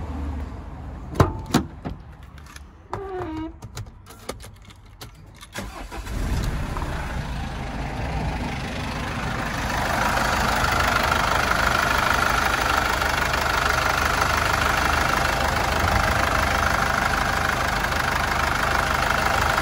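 A couple of sharp clicks, then about six seconds in the Mercedes Sprinter's 2.1 CDI four-cylinder diesel engine starts and settles into a steady idle. It grows louder around ten seconds in. The engine sounds good to the dealer.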